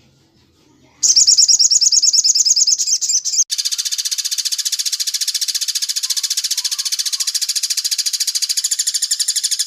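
Songbird recording of a very fast, high-pitched trill of rapidly repeated notes, starting about a second in, breaking briefly about two and a half seconds later, then running on unbroken. It is masteran training audio of sogon song mixed with cililin 'tembak' calls.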